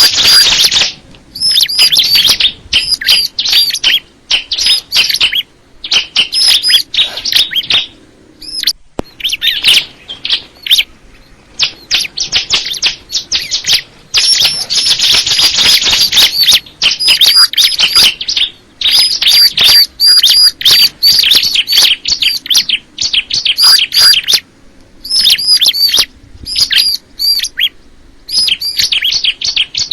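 Crystal ciblek (bar-winged prinia) singing: loud phrases of rapid, high chirping notes, repeated with short pauses between them.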